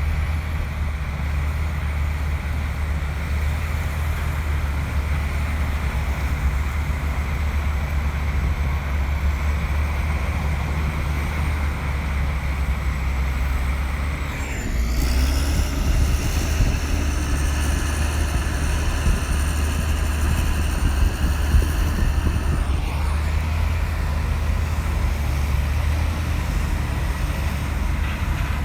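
Komatsu bulldozer's diesel engine running steadily under work. About halfway through, a higher whine joins for about eight seconds, then drops away.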